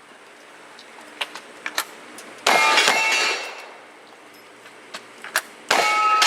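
Two shots, about three seconds apart, each hitting a steel target that rings for about a second after the impact. A couple of small metallic clicks come before the first shot.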